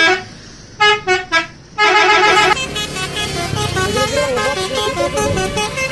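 Bus 'telolet' musical air horn (basuri type): three short toots, a held multi-tone chord, then a run of quick stepped notes playing a tune.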